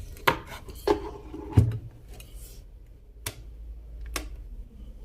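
A handful of sharp clicks and knocks as an electric kettle is plugged in and its switch worked. No heating sound follows, because the kettle still gets no power.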